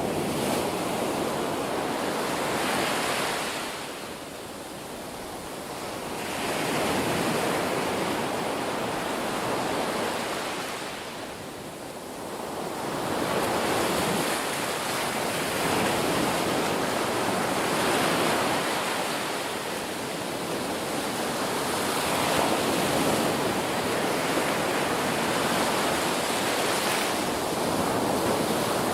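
Ocean waves breaking and washing on a shore: a continuous rushing surf that swells and ebbs every several seconds, with quieter lulls between the larger waves.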